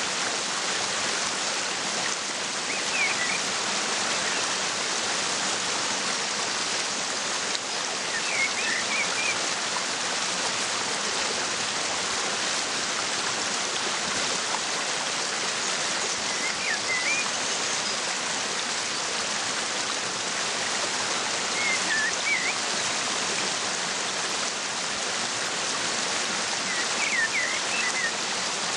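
Waterfall rushing steadily, with a small bird chirping briefly five times, every five seconds or so.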